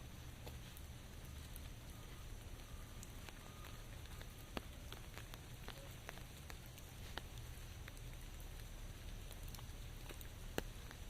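Steady rain: a soft, even hiss with scattered single drops ticking at irregular moments, the sharpest about ten and a half seconds in, over a low rumble.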